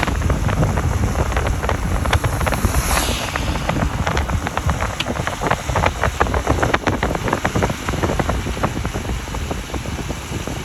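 A car driving on a mountain road: a steady low rumble of road and wind noise, with many sharp clicks and crackles through the middle and a brief hiss about three seconds in.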